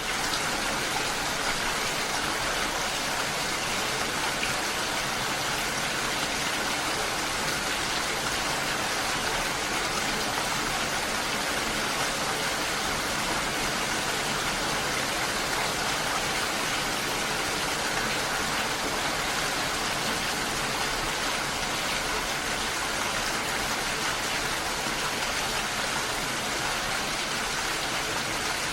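Steady, even rushing of water, with no distinct drops, splashes or rhythm.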